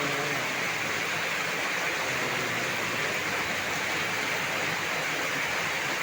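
Heavy rain pouring steadily, a dense even hiss with no break.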